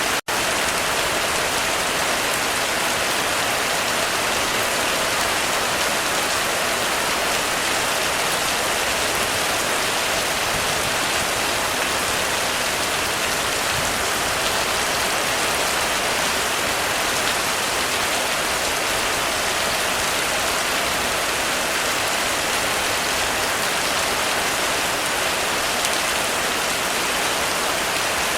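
Heavy rain falling steadily on a roof, a dense, even hiss with no thunder, broken by a momentary dropout just after it starts.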